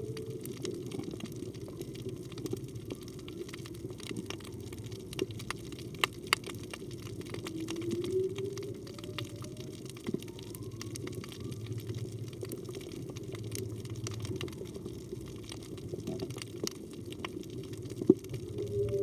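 Underwater recording of whale song: a rising call at the start, another about eight seconds in and a third at the end, with a fainter, higher call in between. The recorder takes it for a humpback whale, in season at this time of year. Behind it runs a steady low wash of water noise with scattered sharp clicks.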